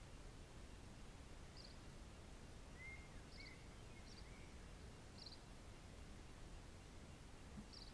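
Near silence: faint low outdoor ambient rumble, with a few faint, short, high bird chirps scattered through it and a handful of soft whistled bird notes about three to four seconds in.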